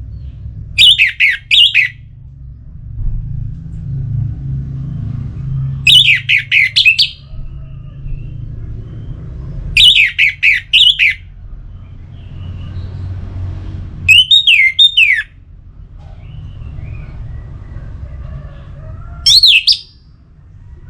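Orange-headed thrush (anis merah) calling in five loud bursts about four seconds apart. Each burst is a quick run of falling, whistled notes lasting about a second, and the last one is shorter. A steady low rumble runs underneath.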